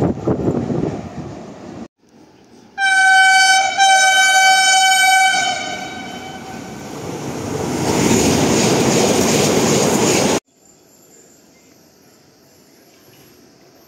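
Passenger train sounding its horn as it approaches through the station: a short blast then a longer one on a single high note, its pitch sagging slightly at the end. The train's running rumble then builds as it comes close and cuts off suddenly, leaving faint quiet ambience.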